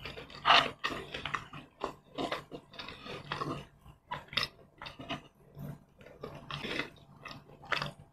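Close-miked eating sounds of roast chicken being chewed: wet chewing and lip smacks in irregular bursts, loudest about half a second in and again near the end.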